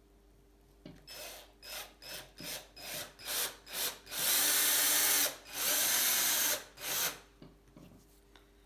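Electric drill run in a series of short trigger pulses, about eight, that grow longer, then two runs of about a second each and a last short burst near the end.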